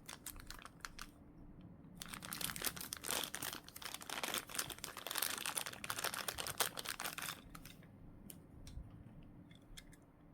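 Plastic packaging crinkling as it is handled, with a dense stretch of crinkling in the middle lasting about five seconds, and scattered light clicks and taps before and after.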